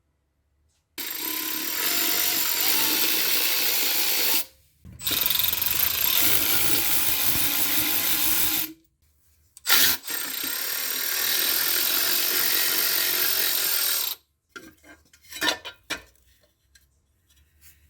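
A power tool runs in three long bursts of about three to four seconds each, with short pauses between them, followed by a few short clicks and knocks near the end.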